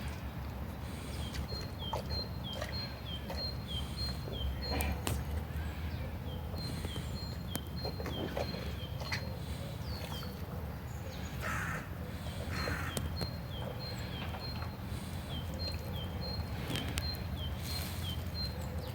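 A small bird calling in runs of short, high chirps, about two or three a second, with two harsher calls a little after the middle, over a steady low rumble.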